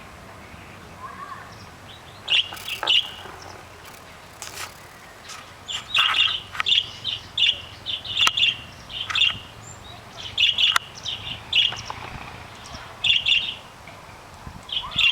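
Caged canaries giving short, repeated chirps in quick clusters, with a few sharp clicks in between.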